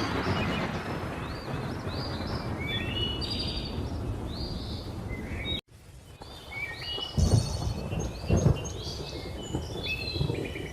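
Thunderstorm ambience with many birds chirping and calling throughout. A thunderclap's rumble fades over the first half, the sound cuts out abruptly for a moment about halfway, and then two low rumbles of thunder follow.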